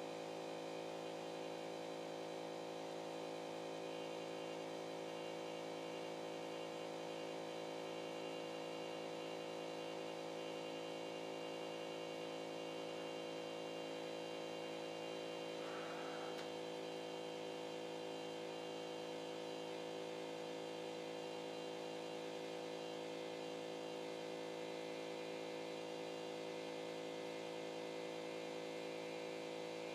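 CNC drawing machine's stepper motors humming steadily at several fixed pitches, with a brief faint sound about halfway through.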